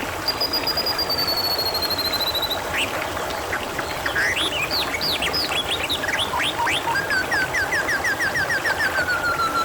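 Water trickling and splashing steadily, with small birds calling over it: a descending trill early, a cluster of quick chirps in the middle, then a run of quick repeated notes that settles into a long steady whistle near the end.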